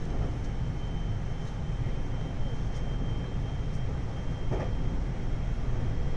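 521 series electric multiple unit running between stations, heard from inside the car: a steady low rumble of wheels on rail with a thin, steady high whine and a faint knock about four and a half seconds in.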